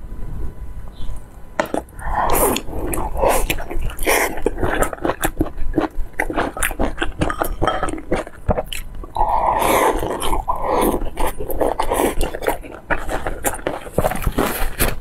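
Close-miked eating sounds: wet chewing, lip-smacking and mouth clicks while eating dumplings, with thicker squelching mouth noises about two seconds in and again around nine to eleven seconds.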